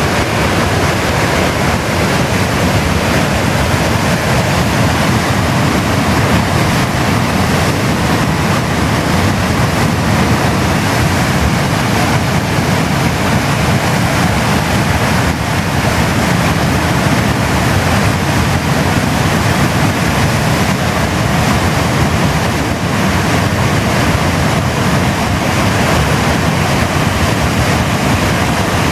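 Floodwater of a swollen mountain river pouring over a weir, a loud, steady rushing roar that does not let up.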